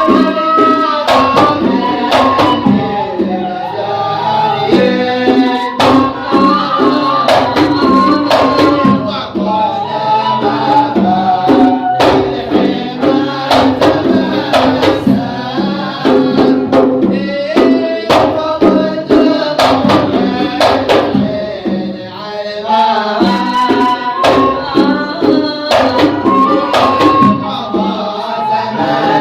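Sama' devotional singing: a sung melody carried over a steady beat of hand-drum strokes.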